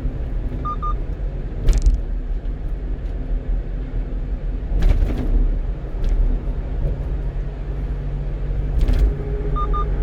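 A 1-ton truck's engine and tyre noise heard from inside the cab while driving: a steady low rumble, with three thumps from the road at about 2, 5 and 9 seconds in.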